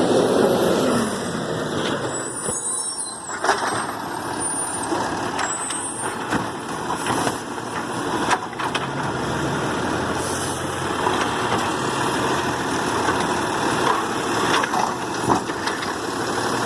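Garbage truck working: its engine runs steadily while the lifting gear knocks and clanks now and then as another bin is picked up and emptied. A high squeal comes in the first few seconds.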